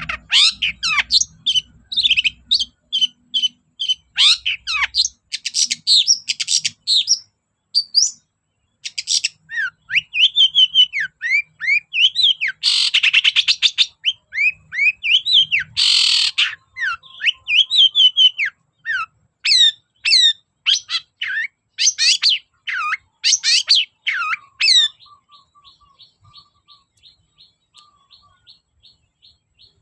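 Long-tailed shrike (cendet) singing a fast, varied song of chirps, sweeping whistles and mimicked calls of other birds, broken by two harsh rasping calls about midway. For the last few seconds it drops to a faint, rapid, even ticking.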